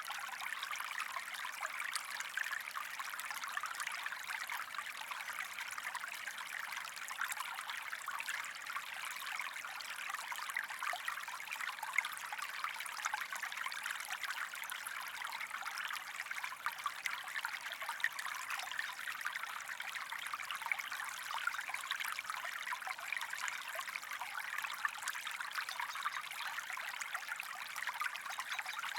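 Stream water flowing and trickling steadily, an even babble of many small splashes.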